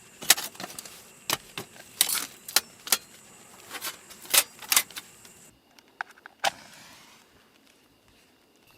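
A string of irregular sharp clicks and knocks, about a dozen over five seconds, then two more and a fade to quiet.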